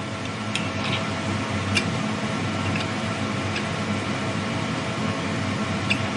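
Emco Turn 220 CNC lathe running: a steady machine hum with a few steady tones through it, and scattered sharp ticks.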